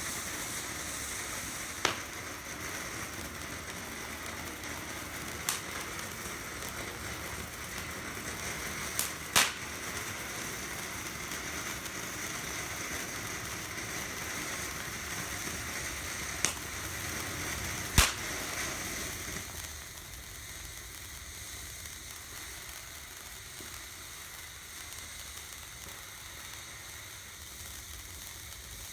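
Phantom Fireworks Grucci Brooklyn Bridge Show fountain, a low-noise firework fountain, burning with a steady hiss and about half a dozen sharp pops, the loudest about nine and eighteen seconds in. A little after two-thirds of the way through, the hiss drops to a quieter level.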